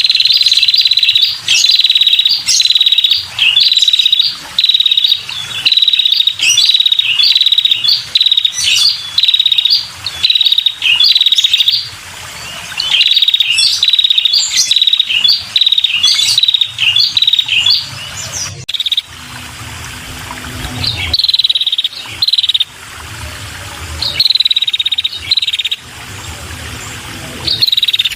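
Female red-headed prenjak calling a long, fast series of short, high, buzzy trilled notes, about two a second. The run thins out for a few seconds about two-thirds of the way through, then picks up again.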